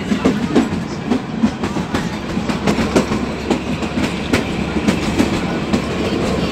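Kalka–Shimla narrow-gauge toy train running, heard from aboard: a steady rumble of the carriage with the wheels clicking and clattering over the rail joints.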